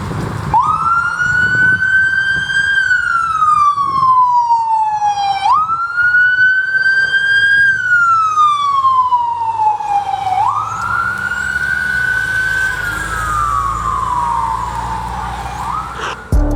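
Fire department response vehicle's siren sounding a wail: three slow cycles, each a quick rise in pitch followed by a long falling sweep. A vehicle's low rumble builds under it near the end.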